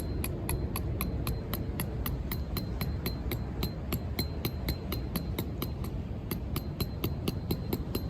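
Rapid, even metallic tapping, about four strikes a second, each with a short high ring, over a steady low rumble of wind and surf.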